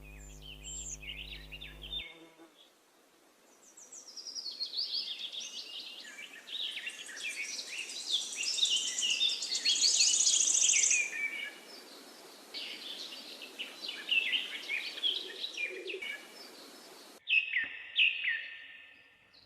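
Birds chirping and calling, a busy mix of quick high chirps and short trills, loudest in a rapid high trill about ten seconds in.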